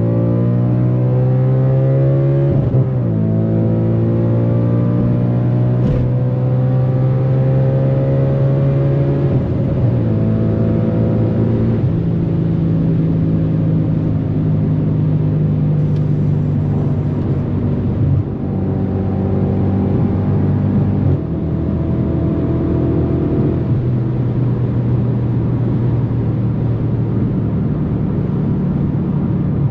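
Audi RS4 B8's 4.2-litre FSI V8 with a straight-pipe exhaust, pulling hard under full throttle. The engine note climbs and drops sharply at two upshifts in the first ten seconds, then holds a high, slowly rising drone at speed, with brief dips near the end.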